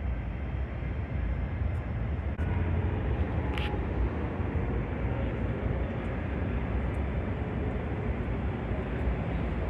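Steady city street noise, a continuous low rumble of traffic, with one brief sharp click about three and a half seconds in.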